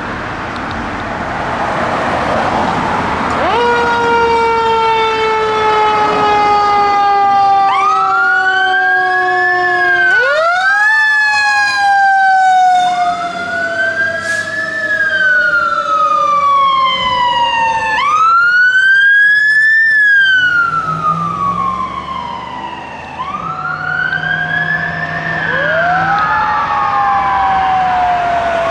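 Fire apparatus sirens passing. About three seconds in, one siren tone starts and slides slowly and steadily down in pitch for the rest of the time. From about eight seconds in, a second siren wails over it repeatedly, each cycle rising quickly and falling more slowly. Road and engine noise comes before the sirens.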